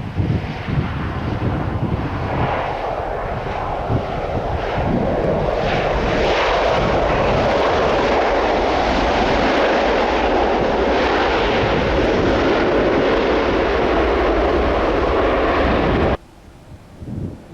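Jet airliner on landing approach, its jet engine noise building over the first few seconds and then holding loud and steady. It cuts off suddenly near the end, leaving wind gusting on the microphone.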